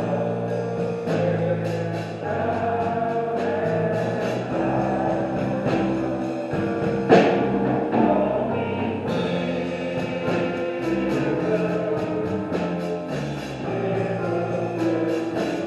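Church band playing gospel music: sustained held chords over a steady drum beat, with a cymbal crash about seven seconds in.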